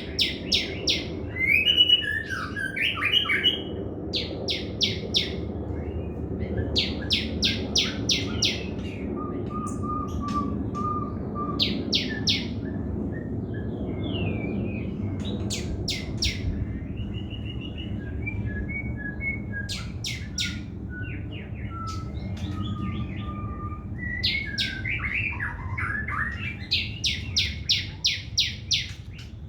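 Sogon trotol songbird singing in full voice: runs of sharp, high chip notes fired off several a second, broken by short warbled phrases and thin trills, over a steady low background rumble.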